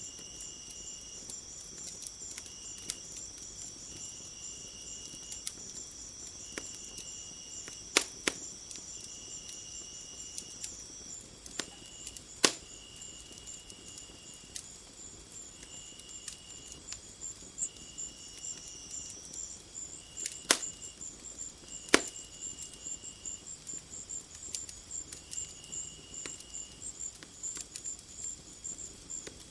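Night insects chirping and trilling: a steady high drone that stops about a third of the way in, a fast pulsing chirp throughout, and short trills repeating every second or two. A few sharp pops from a crackling wood fire stand out as the loudest sounds.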